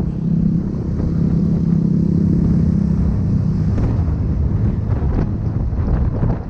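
Wind buffeting the microphone on a moving motorbike, over a low rumble, with a steady engine hum for the first half that then fades.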